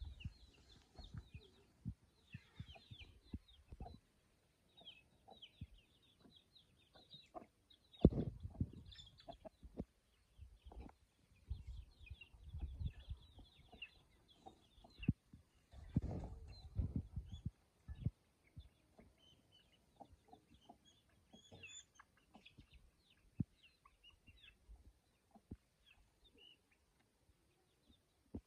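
Chickens clucking with many short high calls, over low rustling and dull thumps that are loudest about 8 and 16 seconds in.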